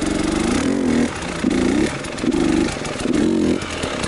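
Enduro motorcycle engine revving in short bursts of throttle, about one a second, its pitch rising and falling within each burst.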